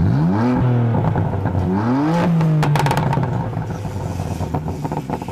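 Car engine revving twice, its pitch climbing sharply each time and then holding steady, followed about two and a half seconds in by a brief crackle of sharp pops.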